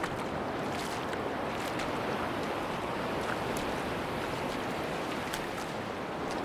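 Sea surf washing steadily on a beach, with wind and scattered light high crackles.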